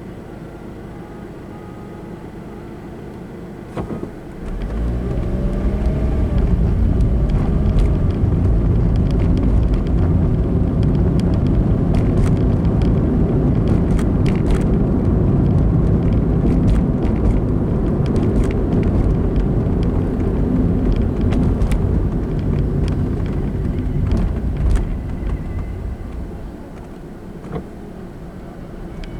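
Road car driving, recorded by a dashcam: a quiet low hum at first, then about four seconds in a loud low rumble of engine and road noise sets in and holds with scattered small clicks, easing off again near the end.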